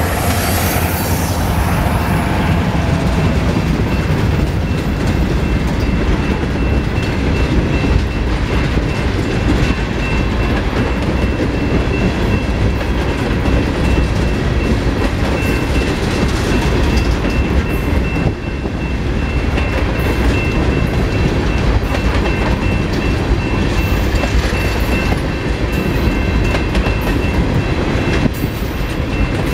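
Freight train tank cars rolling past: a steady rumble of steel wheels on rail with clickety-clack over the rail joints and a thin, steady high ring above it. The last of a locomotive horn blast dies away at the very start.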